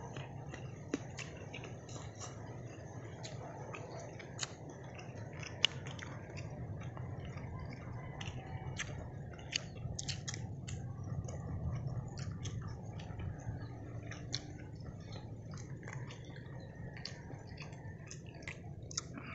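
Close-up chewing and mouth smacking of people eating chicken gizzard and rice by hand: many small wet clicks scattered throughout, over a steady low rumble.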